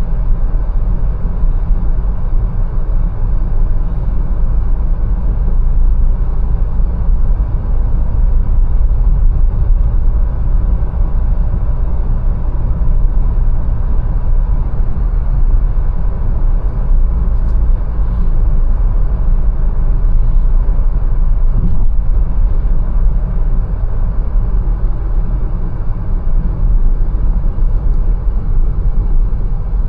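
Mercedes-Benz A180 on the move: a steady low rumble of engine and road noise, with a couple of faint clicks in the second half.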